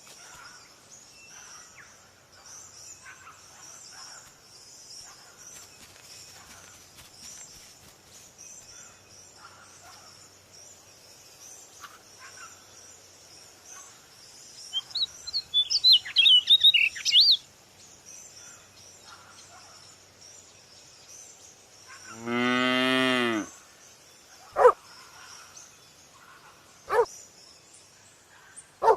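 Outdoor nature ambience with a steady high hiss of insects and birds, and a quick run of bird chirps about halfway. About 22 seconds in comes one long, low mooing call, followed by a few short dog barks near the end.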